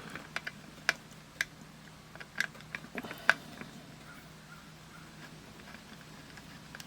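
Light, sharp clicks and taps from the small parts of a disassembled digital multimeter being handled, about half a dozen in the first three and a half seconds, then only a faint steady hum.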